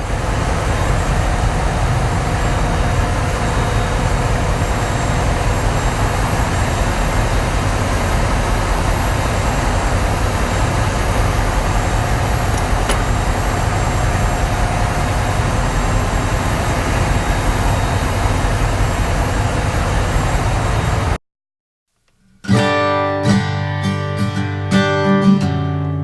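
Diesel generator running steadily in a ship's engine room, a dense, loud machinery noise that cuts off abruptly about 21 seconds in. After about a second of silence, strummed acoustic guitar music begins.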